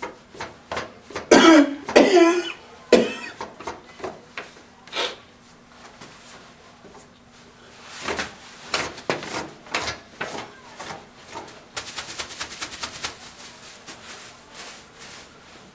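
A person coughing and clearing their throat in a few loud bursts about a second in, then small scattered clicks and knocks, with a fast rapid rattle of ticks about twelve seconds in.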